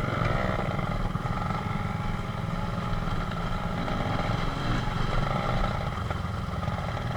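Small motorcycle engine running steadily while being ridden, under heavy low rumble on the camera microphone.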